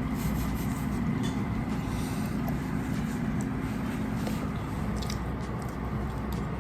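Steady low background hum, with a few faint clicks of cutlery on plates during the meal.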